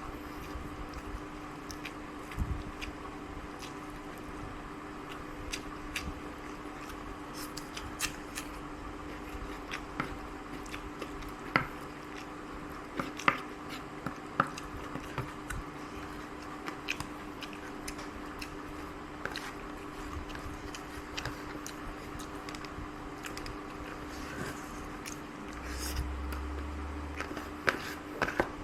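A person eating a rice meal: chewing, with scattered small clicks and taps, over a steady low hum. A short low rumble comes near the end.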